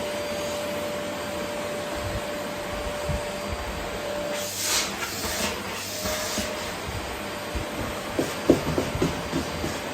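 Vacuum cleaner running steadily with a thin whine over its rush of air. About halfway the whine drops out and the pitch of the suction shifts with a couple of hissing surges, and near the end a quick series of light knocks comes from the nozzle on the floor.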